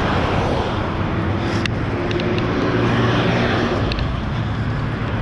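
Steady outdoor traffic noise, with a passing motor vehicle's engine hum from about one and a half to four seconds in and a single click near its start.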